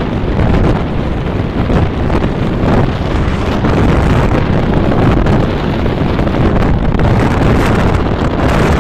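Wind blowing hard across the microphone: a loud, steady rush that is heaviest in the low end.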